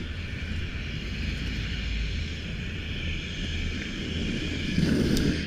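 Wind buffeting the camera's microphone, a steady low rumble over an even hiss, with a brief louder gust near the end.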